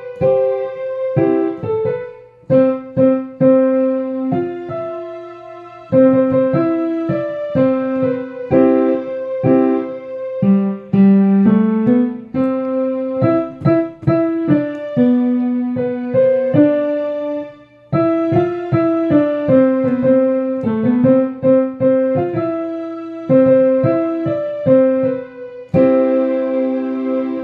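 Piano playing a slow, simple melody over chords, each note struck and left to ring, with a couple of brief breaks in the playing.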